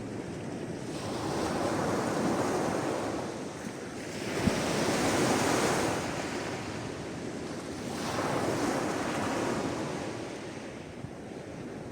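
Sea waves washing onto the shore in three slow swells of surf, each rising and fading over a few seconds, with a steady hiss between them. A single sharp tick sounds about four and a half seconds in.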